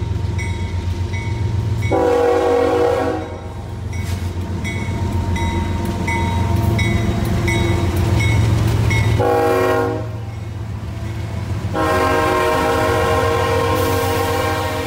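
Freight train's diesel locomotives passing close, engines rumbling, with the air horn sounding three times: two short blasts, then a long one starting about two-thirds in. A bell dings steadily, a couple of times a second, through much of it.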